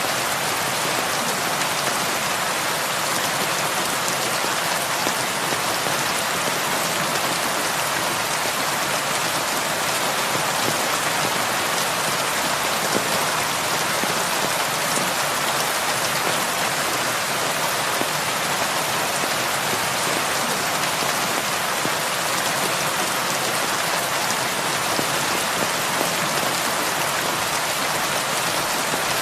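Heavy rain falling steadily on a roof, a dense, even hiss with no let-up.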